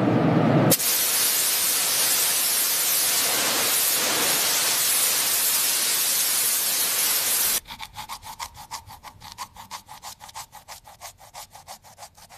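A loud, steady hiss that lasts about seven seconds and cuts off, followed by quicker rhythmic scraping or scrubbing strokes, about six a second.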